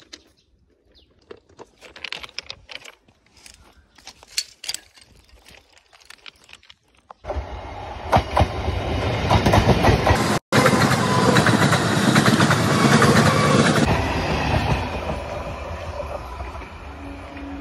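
Electric train running on the tracks, a loud rumble with wheel clatter that starts abruptly about seven seconds in, breaks off for an instant, then fades away. Before it there are only light scattered clicks.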